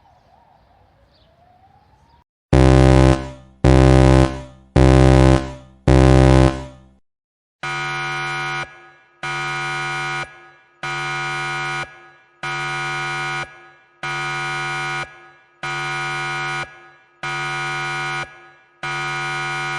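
A faint wailing siren fades out. Then a horn sounds four loud short blasts, followed by eight quieter, evenly spaced steady-pitched horn tones about a second and a half apart.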